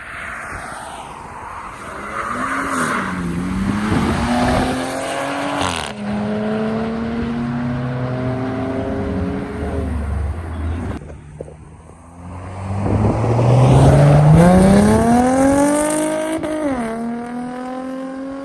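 Car engines accelerating hard past on the road, each climbing in pitch and dropping at a gear change. After a short lull past the middle, a second, louder pull-away climbs through the revs and shifts near the end.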